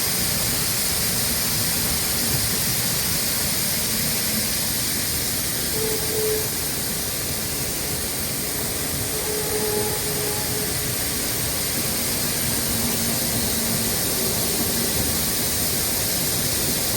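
Tractor pulling grain wagons on the road: a steady, unchanging rumble with a strong hiss of road and wind noise.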